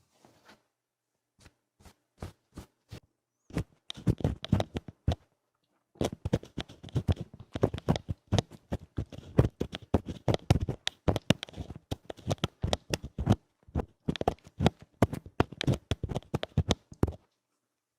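Rough, fast ear-cleaning scratches against an ASMR microphone's ear. There are a few separate strokes at first, then a short run about four seconds in. From about six seconds the scratching is dense and continuous, and it stops shortly before the end.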